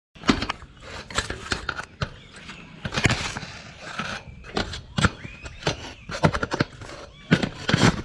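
A bird pecking and biting at the camera, close up: an irregular run of sharp taps and knocks, some in quick clusters.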